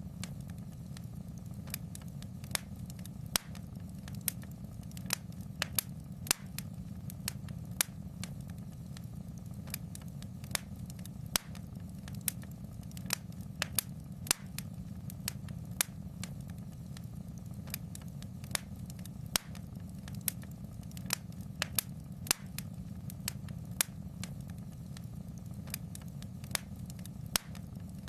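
Wood fire burning in a fireplace: a steady low rumble of flames with irregular sharp crackles and pops, about one or two a second.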